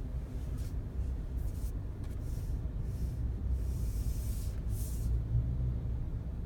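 Steady low road rumble inside a Volkswagen Passat B8's cabin while driving, with a few brief soft hissing swells, the longest about halfway through.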